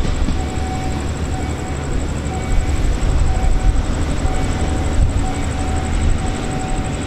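Diesel-hauled passenger train running on the tracks: a steady low rumble from the locomotive and carriages, with a thin high tone sounding on and off.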